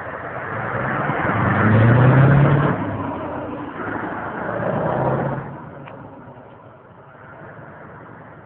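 Scania 144's V8 diesel engine under throttle, rising in pitch and loudest about two seconds in. It swells again around five seconds in, then drops away and fades.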